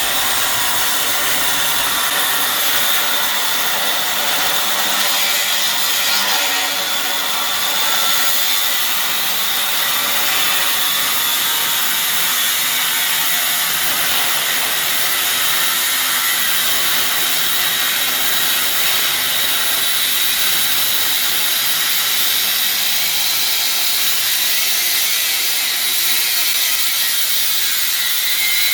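Power tool cutting through the tow truck's rusty steel frame, running steadily with a hissing, mostly high-pitched noise.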